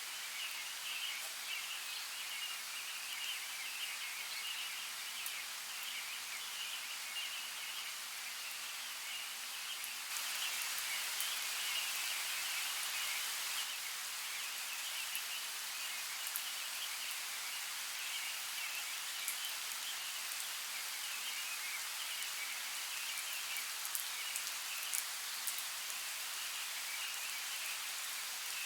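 Forest water ambience: a steady hiss of water with light droplet-like ticks and a high, flickering chirring chorus above it. It becomes slightly louder about ten seconds in.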